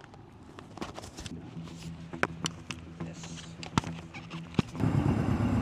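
Scattered light clicks and knocks over a faint low hum, then about five seconds in a 2014 Yamaha Bolt XV950's air-cooled V-twin comes in suddenly and loudly and runs steadily.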